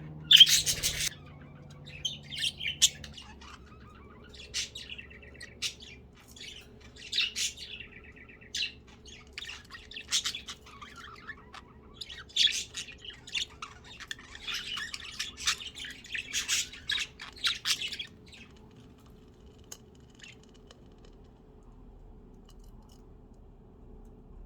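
Pet budgerigars chirping and squawking in quick short bursts, loudest about half a second in, until the calls die down about 18 seconds in. A faint steady hum runs underneath.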